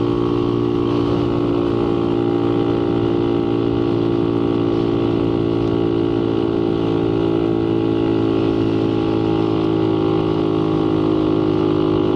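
Motorcycle engine running steadily under way, its note holding nearly level and edging slightly higher in the second half.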